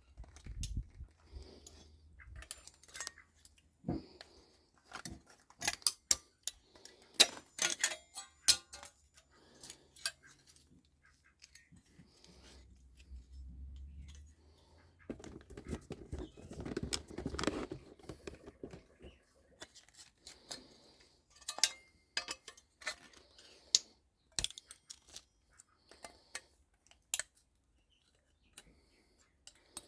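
Irregular clicks and clinks of hand tools and small metal parts, as aluminium scrap from a microwave is cut and cleaned off by hand, with a low hum for a few seconds in the middle.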